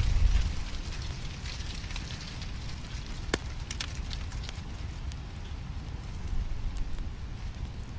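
Wood fire crackling in a fireplace: a steady hiss and low rumble with scattered sharp pops, the clearest about three and a half seconds in.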